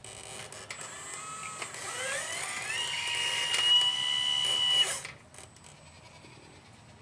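Small electric motor of a 1/12-scale RC excavator model whining: it speeds up with a rising pitch, holds a steady high whine for about two seconds, then cuts off suddenly, leaving a faint hum.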